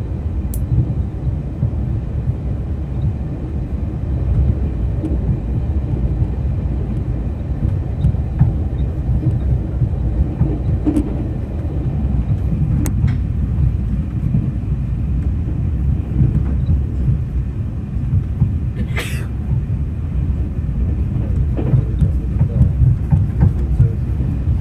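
Steady low rumble of a train in motion, with a few faint clicks and a brief hiss about 19 seconds in.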